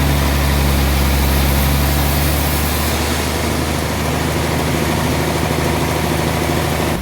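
Sawmill machinery running with a steady deep hum. The sound changes slightly about two and a half seconds in.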